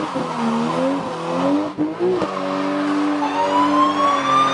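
Car engine revving up and down with tyre noise. About three seconds in, a siren starts winding up in a rising tone.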